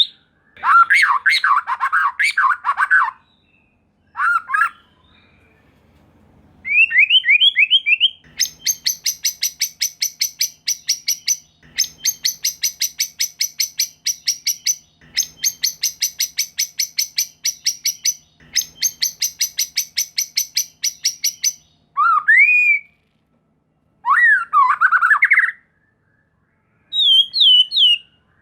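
White-rumped shama song: a few quick whistled phrases that slide up and down. Then four runs of rapid, harsh, rattling notes, about five or six a second, with short breaks between them, and a few more whistled phrases near the end.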